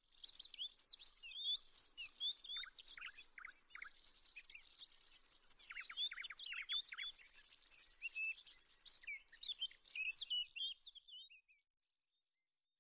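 Songbirds chirping and singing, many short quick notes over a faint outdoor hiss, fading out near the end.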